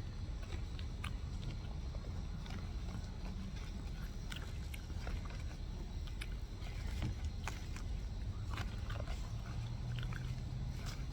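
Close-up eating sounds: scattered small wet clicks and smacks of chewing over a steady low rumble.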